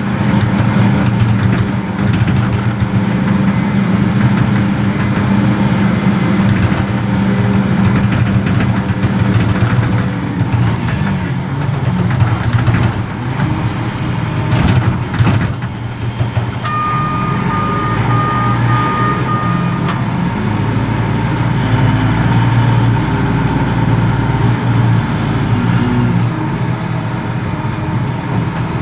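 Heavy diesel engine of a reach stacker running steadily under work, with some knocks and clatter partway through. About two-thirds of the way in, a reversing alarm beeps for about three seconds.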